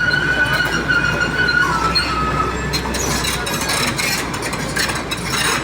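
Excavator working: a steady engine hum under a long, high metallic squeal that fades out about two and a half seconds in, followed by scraping and clattering.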